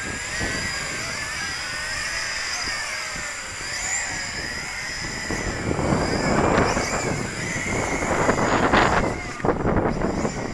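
Yi Zhan Tarantula X6 quadcopter's motors and propellers whining, the pitch wavering up and down as the throttle changes, with its battery at low-voltage cutoff. Strong gusting wind buffets the microphone, swelling about six and again about nine seconds in.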